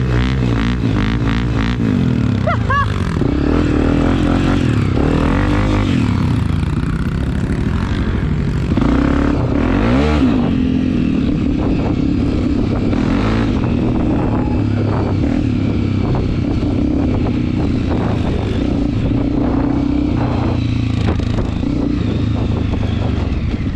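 Dirt bike engine running as the bike is ridden along a trail, its pitch rising and falling with the throttle, with rattles and clatter from the bike over rough ground.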